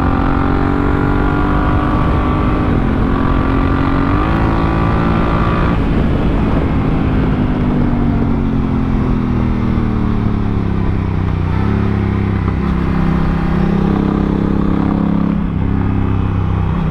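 Honda Africa Twin CRF1000L's parallel-twin engine under hard acceleration: revs climb with two quick upshifts of its dual-clutch gearbox. About six seconds in the throttle closes and the revs wind down slowly, then pick up again near the end.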